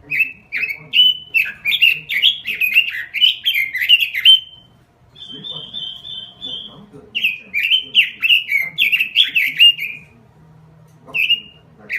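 Pekin robin (red-billed leiothrix) singing: quick runs of short whistled notes that each drop in pitch, broken about halfway by a brief buzzy trill, with a short pause near the end before the song resumes.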